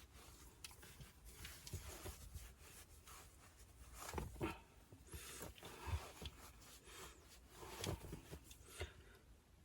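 Faint rustling and scraping with scattered soft knocks, a few slightly louder thumps in the middle.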